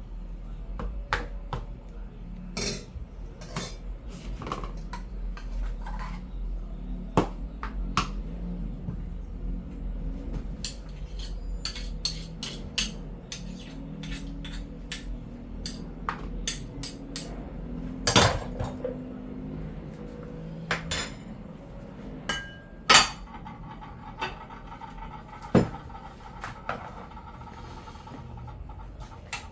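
Spoons and utensils clinking and knocking against pots and plates as food is dished out, in scattered irregular clinks, with a few louder knocks in the second half.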